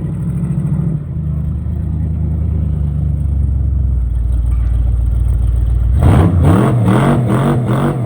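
Turbocharged 6-litre V8 in a Chevrolet C10 running steadily. About six seconds in it is revved in quick, repeated blips, the pitch rising and falling several times a second.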